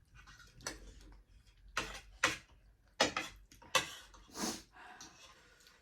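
Eating sounds: a series of short, irregular smacks and clicks from chewing and slurping spicy instant noodles and momo.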